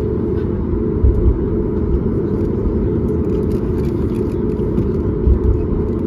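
Steady low rumble of a Boeing 737 MAX 8's cabin as it taxis after landing, with brief low thumps about a second in and again about five seconds in.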